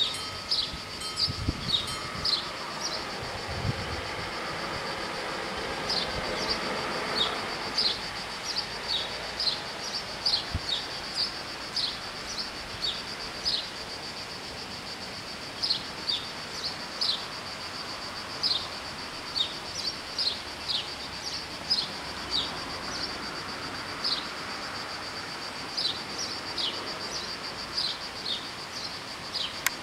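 Steady high-pitched buzzing of insects, typical of summer cicadas, with a bird repeatedly giving short descending chirps in bursts. The ringing of the crossing bells dies away in the first couple of seconds.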